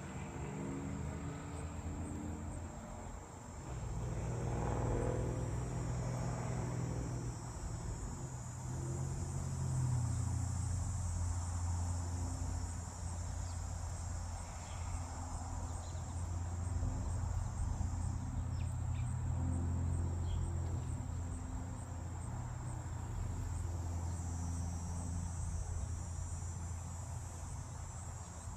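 Crickets chirring in a steady high drone over a low, steady rumble. A few faint short chirps come through near the middle.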